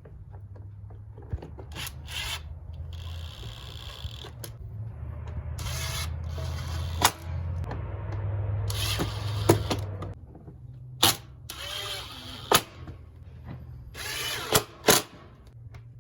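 Mechanic's tools at work on metal truck parts: a tool motor running in stretches over a steady low hum, with scattered sharp clicks and knocks of metal on metal.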